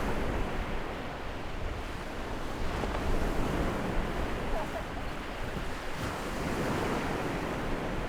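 Waves breaking and washing on a beach, with strong wind buffeting the microphone: a steady rushing noise that swells and eases.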